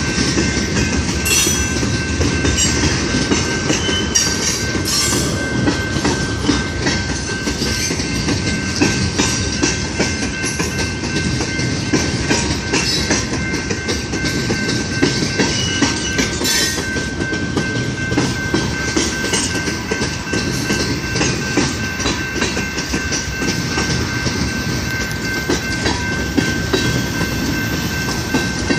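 Norfolk Southern mixed freight train rolling past: a steady rumble with the clickety-clack of wheels over the rails, and a thin steady high ring above it.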